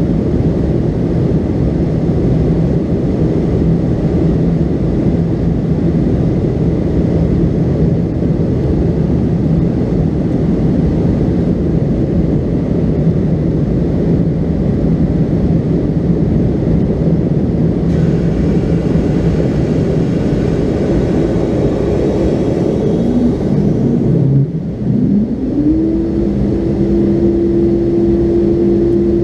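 Cabin noise inside a McDonnell Douglas MD-82 airliner: a steady loud roar of its aft-mounted JT8D turbofan engines and airflow, with a low hum. Near the end the hum dips in pitch and then rises to a new, steadier and higher pitch, with a brief drop in loudness.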